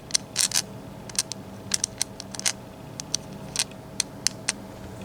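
Small metal sliders and pins of a disassembled Mul-T-Lock MT5+ lock clicking and tapping as they are handled and moved about: an irregular series of sharp light clicks, a cluster of louder ones about half a second in.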